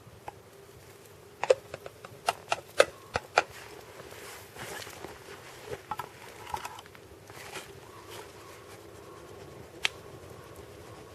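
Log campfire crackling: a quick run of sharp, irregular pops and snaps a second or two in, softer crackle after, and one more pop near the end.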